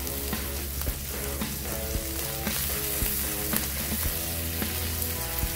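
Sausage patties and hash brown patties sizzling steadily on a hot flat-top griddle, with a few light taps of a metal spatula.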